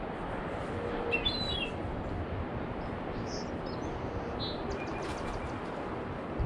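A few short, high bird chirps over a steady rushing background, with a low thump at the very end.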